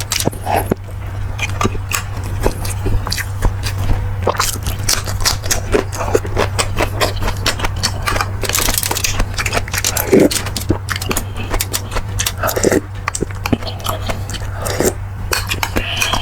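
Close-miked eating sounds: chewing, lip smacks and mouth clicks while eating beef bulalo, many quick irregular clicks, with a steady low hum underneath.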